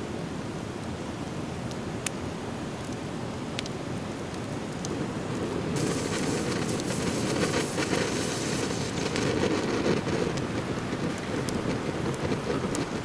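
Driftwood bonfire burning with a steady hiss and occasional sharp pops. About five to six seconds in, the fire's noise swells louder for several seconds before easing back.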